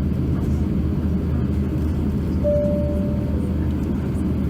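Steady low rumble inside the cabin of an Airbus A350-900 on the ground before takeoff: its Rolls-Royce Trent XWB engines and airframe. A single clear tone sounds for under a second about two and a half seconds in.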